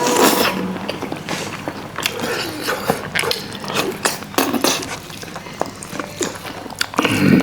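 Eating sounds: chewing and biting on fatty pangas fish, with many short, irregular clicks and smacks throughout.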